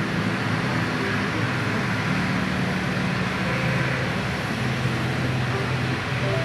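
Steady jet aircraft engine noise, with low droning tones that shift pitch a couple of times.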